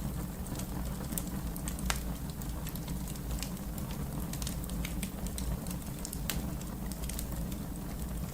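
Wood fire crackling: a steady low rumble of burning with irregular sharp pops and snaps, a louder pop about two seconds in and another about six seconds in.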